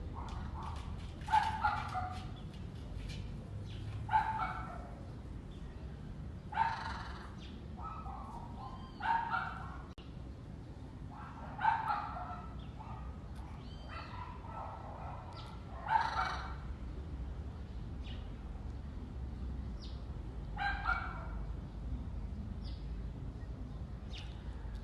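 Bird calls repeating every few seconds, some in quick pairs, over a steady low rumble.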